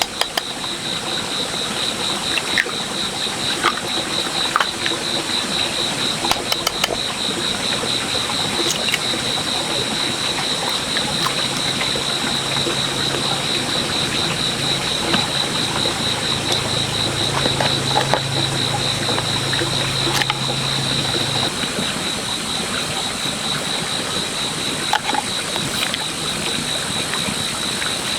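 Insects chirring steadily in a high, fast-pulsing drone. A low hum joins for about ten seconds in the middle, and there are scattered small clicks and knocks.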